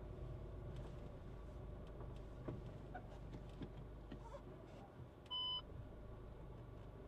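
Inside a Skoda Kushaq's cabin, a low steady hum with a few small clicks, and one short electronic beep a little over five seconds in, the car's warning chime.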